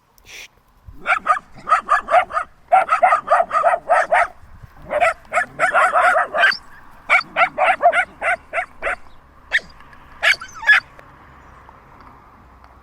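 A dog barking in quick runs of short barks, about four a second, thinning to a few single barks near the end.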